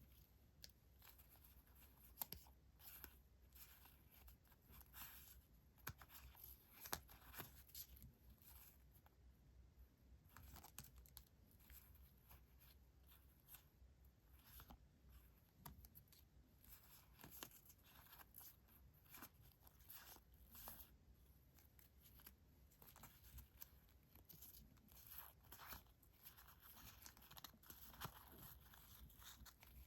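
Paper decoration items (stickers and sheets) being handled close to the microphone: faint, intermittent crisp paper rustling with small ticks and crinkles.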